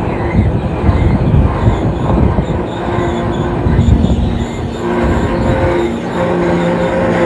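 A freight train of tank cars rolling past close by: a steady rumble and clatter of steel wheels on rail. From about three seconds in, steady squealing tones from the wheels come and go over the rumble.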